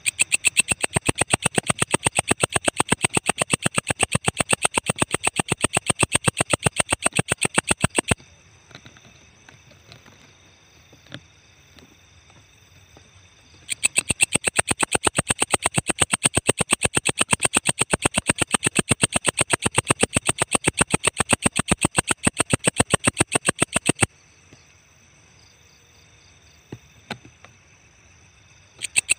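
Walang ecek katydid calling in fast, even trains of high buzzy pulses, about ten a second. It calls for about eight seconds, stops, calls again for about ten seconds, and starts a third bout just before the end.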